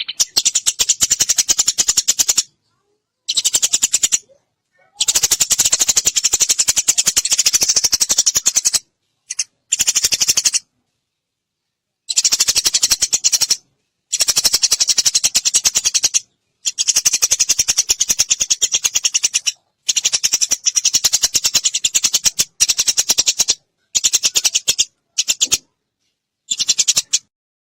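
Eurasian tree sparrows chattering: bursts of rapid, high chirps lasting a second to a few seconds each, broken by sudden gaps of silence.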